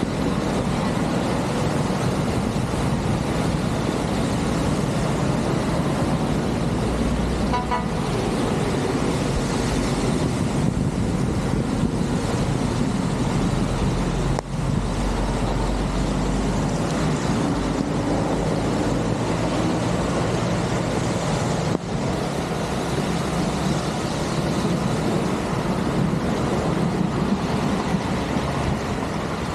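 Heavy rain falling steadily on a flooded street, with motor traffic passing through the water and a short horn toot about eight seconds in.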